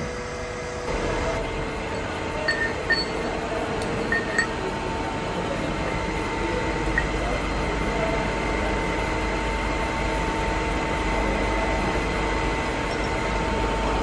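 Shop machinery running steadily with a low rumble and a few held tones, with several light metallic clinks in the first half.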